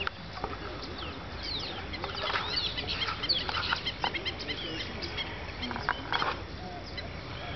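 A flock of birds chirping and calling, many short quick chirps overlapping, thickest a couple of seconds in, over a steady low background hum.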